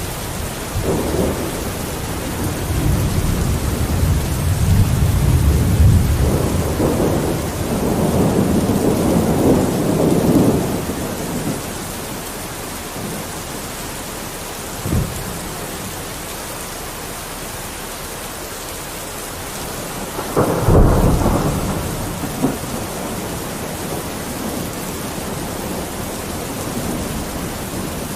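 Steady rain with rolling thunder: long low rumbles build and fade over the first ten seconds, there is a brief sharp crack about halfway, and another loud rumble breaks in about two-thirds of the way through.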